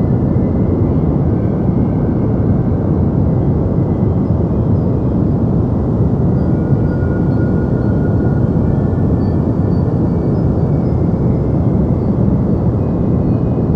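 Deep white noise for sleep: a loud, steady, even rumbling hiss weighted toward the low end, with no change.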